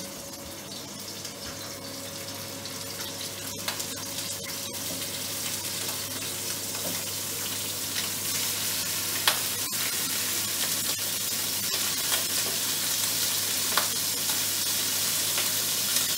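Chicken drumsticks frying in hot sunflower oil in a frying pan. The sizzle grows steadily louder as more pieces are laid in, with a few sharp clicks along the way.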